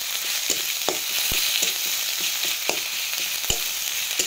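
Onion, ginger-garlic paste and tomato sizzling in hot oil in a kadai, with a steady high hiss. A spatula stirs the paste, scraping and knocking sharply against the pan several times at uneven intervals.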